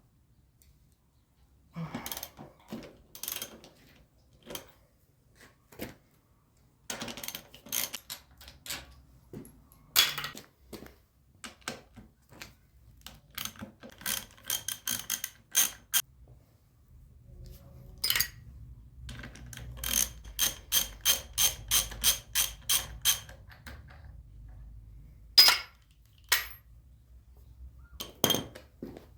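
Metal hand tools clinking and knocking while working on a motorcycle front fork, with a quick run of about a dozen evenly spaced metallic clicks about two-thirds of the way through.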